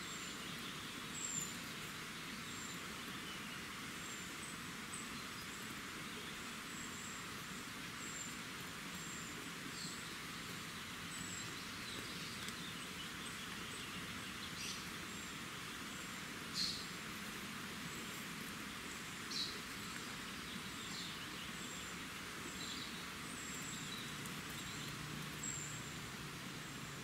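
Faint steady hiss with small birds calling: a thin high chirp repeated about once a second, and a few louder short calls in the second half.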